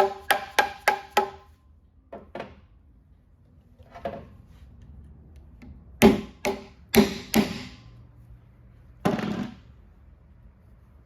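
Hammer nailing copper flashing onto the top of a wooden fence post: a quick run of ringing blows, about three a second, that stops a little over a second in, followed by a handful of scattered knocks and taps.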